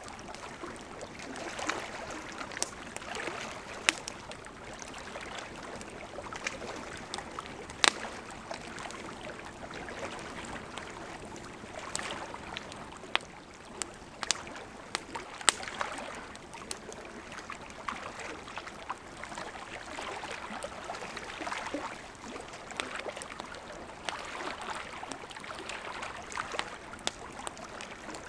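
Campfire of burning wood crackling: a steady hiss of flames with frequent sharp pops, a handful of them much louder than the rest.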